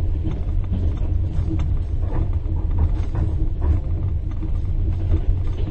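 Steady low rumble of a moving train heard inside a passenger compartment, with a metal spoon tinkling in a cup in short, irregular clinks.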